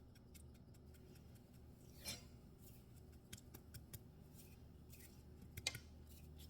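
Near silence with faint room hum, broken by a few soft rasps and light ticks of dried Italian seasoning being sprinkled into the soup pot, the clearest one about two seconds in.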